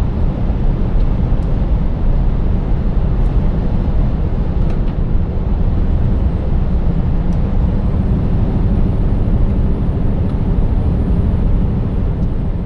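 Scania 590S truck's 16-litre V8 diesel running steadily while driving, under a constant low road rumble.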